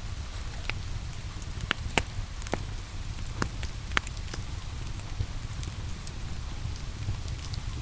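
Wood fire crackling with irregular sharp pops, the loudest about two and four seconds in, over a steady low rumble and the even hiss of rain.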